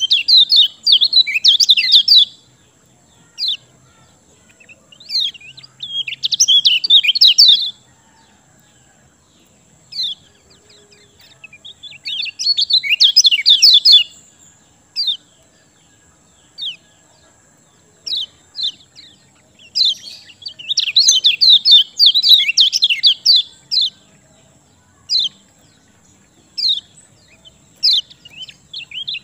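Common iora (kecial kuning) singing: about four bursts of fast, chattering chirps a second or two long, separated by single short sharp notes. A faint steady high-pitched whine runs underneath.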